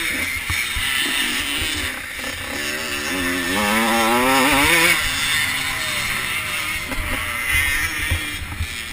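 85cc two-stroke motocross bikes racing, with one engine revving up in a rising whine for about a second and a half near the middle.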